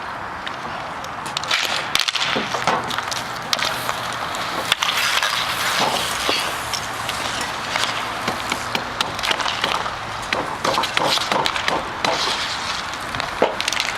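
Hockey play: irregular sharp clacks and knocks of sticks on the puck and on each other, with the puck knocking off the boards, over steady rink noise.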